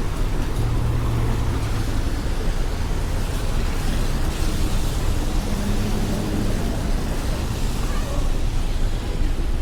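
Street traffic on a rainy city road: a steady low rumble of passing vehicles under a constant wash of hiss.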